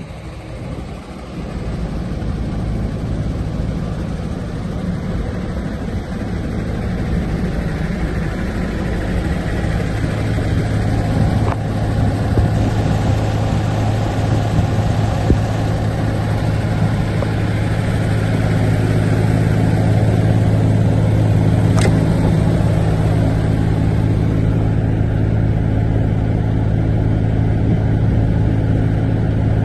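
A truck's diesel engine running steadily at an unchanging pitch, growing gradually louder over the first twenty seconds and then holding level.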